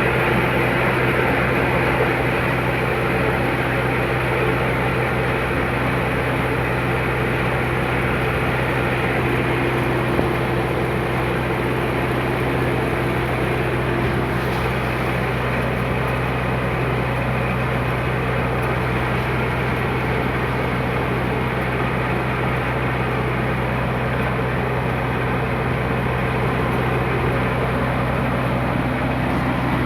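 Tractor diesel engine running steadily at one constant speed, close by.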